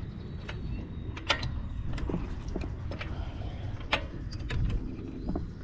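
Scattered sharp metallic clicks and clinks of a hand tool working a wheel's lug nuts as they are broken loose, over a steady low rumble.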